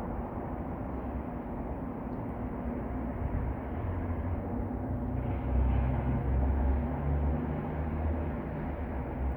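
Steady low rumble of ambient noise, swelling louder about five seconds in.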